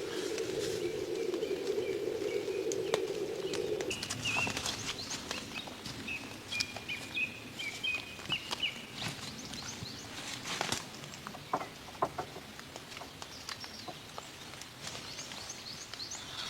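Small birds chirping in short wavering calls, over scattered sharp clicks and knocks. A steady low hum stops suddenly about four seconds in.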